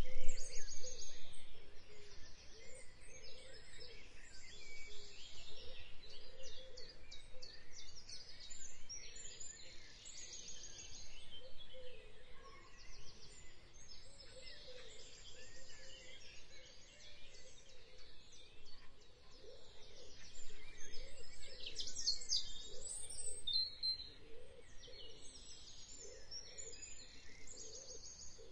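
Several songbirds chirping and trilling continuously in short, rapid phrases over faint background noise.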